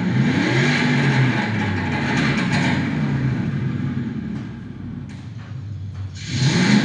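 Synthesized engine sound from an Enginebox Terminator active sound unit on a BYD Seal electric car, revving up and down in repeated swells. It eases off about halfway, then revs up sharply again near the end.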